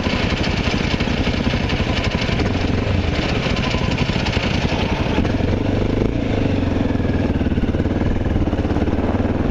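Honda XR650L's air-cooled single-cylinder four-stroke engine running under way while riding, with a steady pulsing note that settles somewhat about halfway through.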